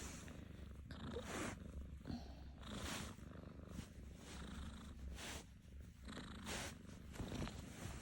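A kitten purring steadily and close up, a low continuous rumble, with soft breathy swishes every second or two.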